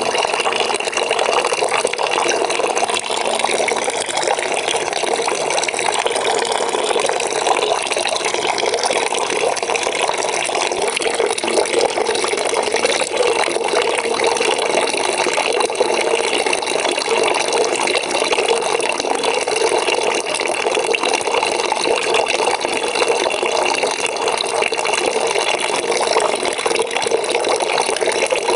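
Water running steadily from a tap into a bucket, filling it with a constant gushing splash.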